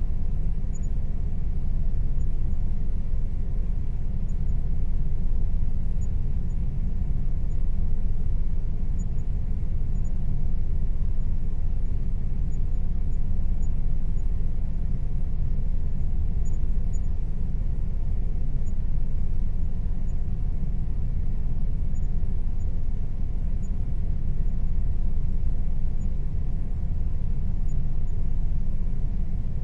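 Air conditioner running: a steady, unchanging rumble of fan and airflow, heaviest in the low end, with a faint steady hum.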